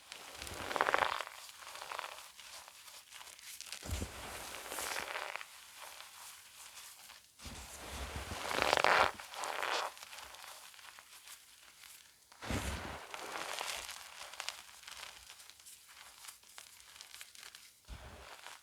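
Gym chalk crushed and crumbled by hand: crisp crunching with fine crackles, in a few separate squeezes a second or two long, the loudest about nine seconds in.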